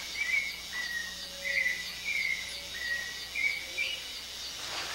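A rainforest bird calls repeatedly in short, slightly falling notes, roughly one to two a second, over steady forest ambience with faint high insect ticking.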